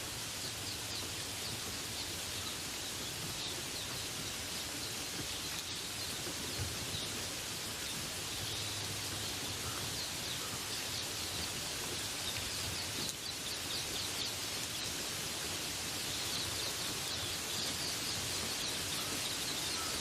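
Steady rain hiss with songbirds chirping through it in short, quick high calls that come and go throughout.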